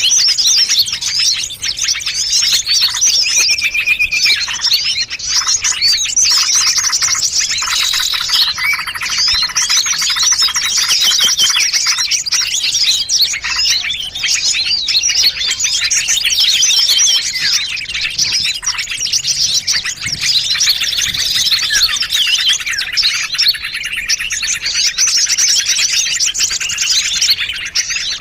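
Mixed bird-lure recording of several small songbird species layered together: a dense, unbroken chatter of rapid, high chirps and trills.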